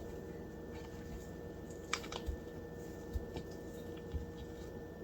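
Faint, scattered clicks and crackles of hands peeling apart cold, partly frozen bacon slices, over a steady faint hum.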